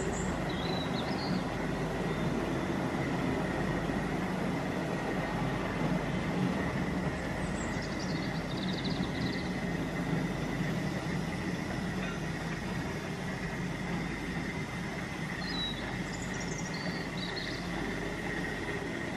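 Freight train rolling past with a steady rumble and a faint, steady high whine.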